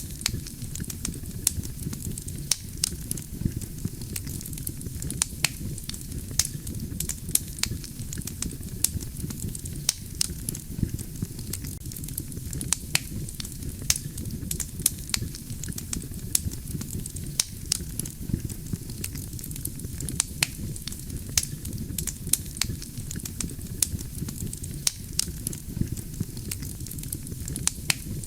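Wood campfire burning: a steady low rumble of flames under many sharp, irregular crackles and pops of the burning logs.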